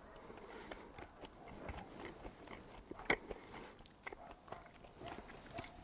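A person chewing tteokbokki (chewy rice cakes in spicy sauce): soft, wet mouth sounds with small clicks scattered throughout and one sharper click about three seconds in.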